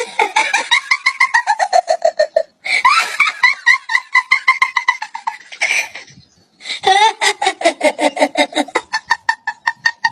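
A person laughing hard in three long bouts of rapid, high-pitched ha-ha pulses, the pitch sagging through the bouts, with short breaks between them.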